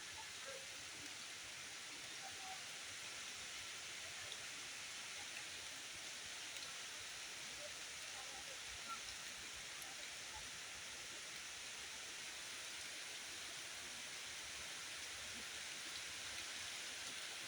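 A steady, even hiss of outdoor background noise, faint throughout.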